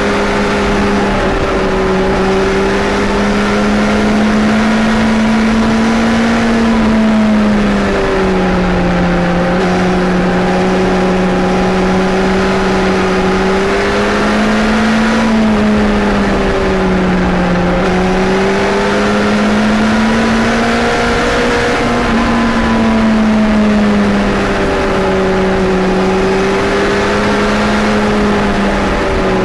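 Suzuki Hayabusa Gen 2's 1340 cc inline-four engine running under way, heard from on board with wind rush. Its pitch rises slowly and drops sharply several times as the revs change.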